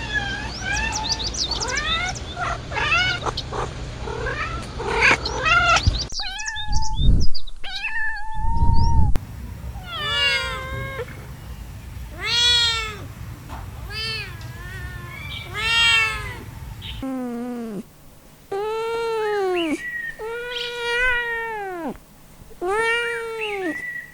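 Kittens mewing across several spliced recordings. First a litter cries rapidly over one another in high voices, then a single kitten mews repeatedly. Near the end come louder, lower meows, each rising and then falling in pitch, about one every second and a half.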